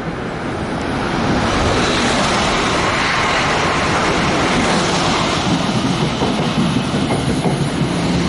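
Passenger train cars rolling past close by on electrified track, with the rush of an Acela Express high-speed train closing in on the next track. The noise grows louder about a second in and stays loud.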